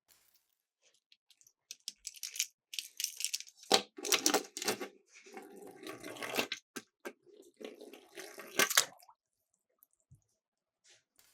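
Miniature toy cars clattering and splashing into water, in irregular bursts with sharp clicks.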